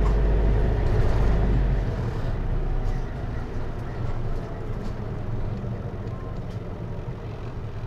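Cabin sound of a Hino Liesse microbus with a J05C four-cylinder diesel, heard from inside. The engine rumble is strong for the first two seconds, then drops away to a quieter running sound as the power comes off.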